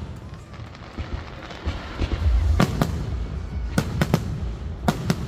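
Fireworks going off in sharp, scattered bangs over a low rumble: quieter at first, then a pair of bangs about two and a half seconds in, a quick run of three around four seconds, and two more near the end.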